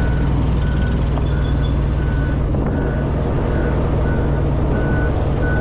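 Large diesel engine idling steadily, with a short high beep repeating about twice a second over it.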